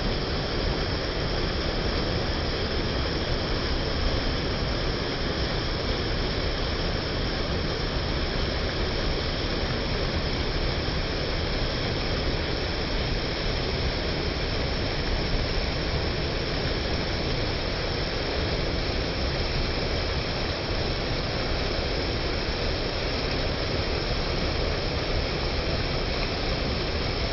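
Mountain creek rushing: a steady, unbroken rush of water.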